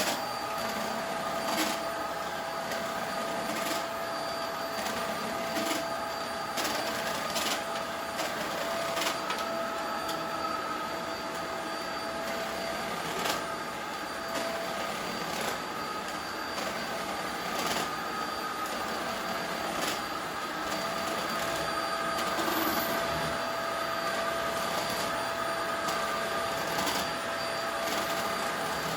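Corded cyclone vacuum cleaner running steadily with a whining tone, with scattered clicks and knocks as the nozzle is moved over the floor. The owner says this cyclone machine was making a strange noise.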